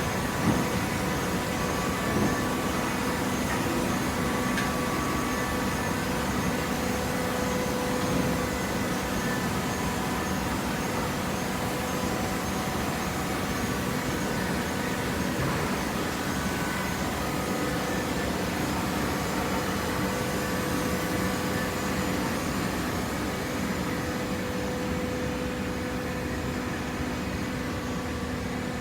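Hydraulic waste-paper baler running: a steady mechanical hum with several held tones, and a couple of short knocks in the first few seconds.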